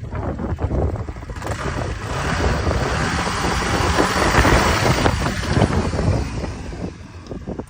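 Suzuki Address 125 scooter's single-cylinder four-stroke engine running. It gets louder for a few seconds from about a second and a half in, then settles lower near the end.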